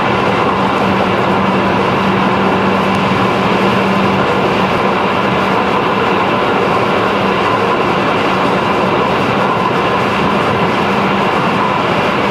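Running sound of a JR 211 series electric train heard from inside the passenger car: a steady rumble of wheels and running gear with a constant low hum, the train cruising at an even speed.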